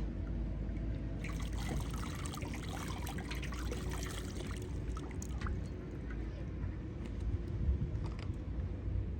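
Water trickling and splashing over a steady low rumble, with a cluster of small clicks and splashes in the first half.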